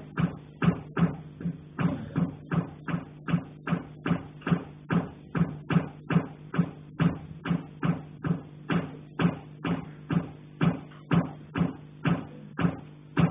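Rapid, steady knocking on a pipe carried down from the attic, about three knocks a second. Each knock is followed by a low ringing hum.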